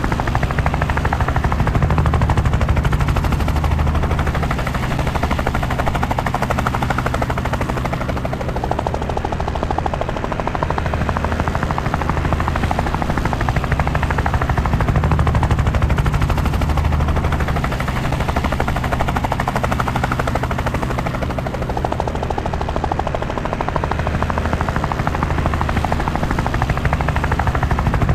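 Helicopter in flight: the rapid, steady thudding of the rotor blades over a deep engine throb, swelling and easing slowly every several seconds.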